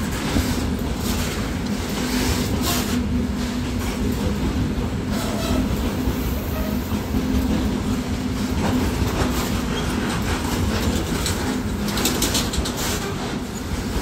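Covered freight wagons of a long goods train rolling past close by: a steady rumble of wheels on the rails with a low hum, and scattered clicks and clanks as the wheels pass over rail joints.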